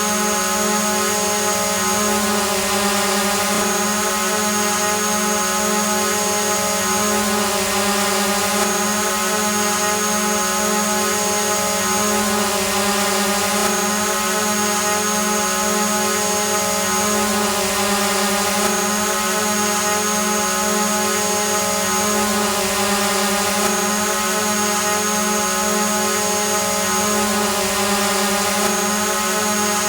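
Quadcopter drone hovering: a steady multi-tone propeller hum over an even hiss, with a faint high tone that breaks off briefly about every five seconds.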